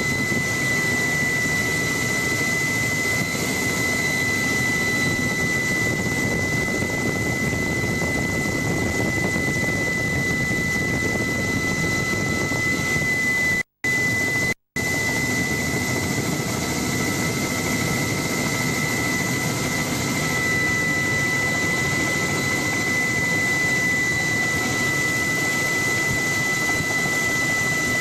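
Helicopter turbine and rotor noise heard steadily from inside the cabin, a dense roar with a steady high whine. The sound cuts out twice for a moment about halfway through.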